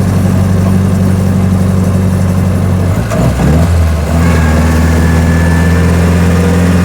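1924 Austin Seven's four-cylinder side-valve engine running as the car drives along. About three seconds in the engine note breaks and dips, then settles into a new steady pitch.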